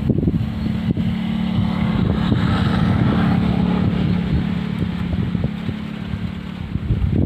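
Wind buffeting the microphone, with a steady engine hum underneath that starts just after the beginning and stops near the end.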